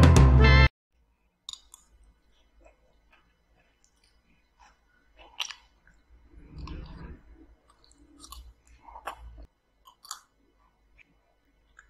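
Quiet close-up chewing and mouth sounds of someone eating fried egg and rice, with a few short clicks scattered through, such as a metal spoon touching a porcelain bowl. A burst of upbeat music cuts off just under a second in.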